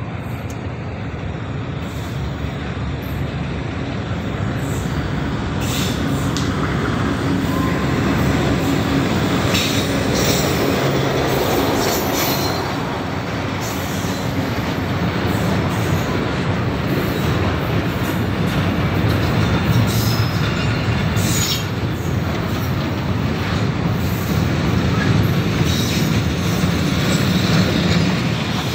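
Pakistan Railways diesel locomotive approaching and passing close by, followed by a long train of loaded oil tank wagons rolling past. The sound grows louder over the first several seconds, then holds as a steady rumble of wheels on rails, cut by many sharp clacks and squeals.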